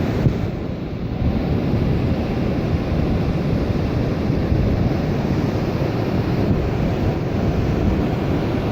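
Ocean surf washing up the beach with wind buffeting the microphone: a steady, low rushing noise.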